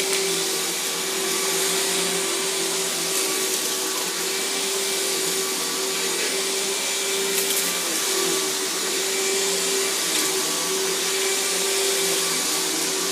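Riccar 10-amp high-performance bagged vacuum cleaner running steadily while vacuuming carpet, its motor holding an even hum that dips briefly about eight seconds in.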